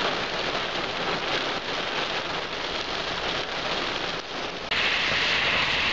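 Heavy hurricane rainband rain pouring onto the road and ground, a steady dense hiss. About three-quarters of the way through the hiss turns suddenly louder and sharper.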